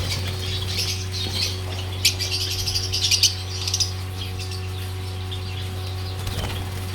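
A flock of small cage birds chirping together, a dense patter of short high calls that is busiest in the first few seconds, over a steady low hum.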